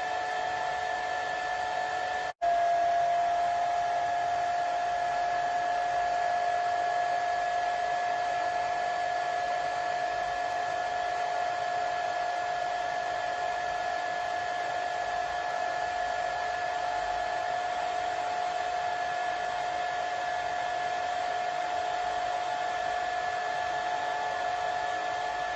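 Hair dryer running steadily, a rush of air with a steady whine over it. About two seconds in the sound cuts out for an instant and comes straight back a little louder.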